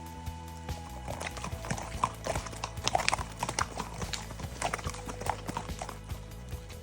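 Haflinger horse's hooves clip-clopping in an irregular run of knocks, starting about a second in and fading near the end, over steady background music.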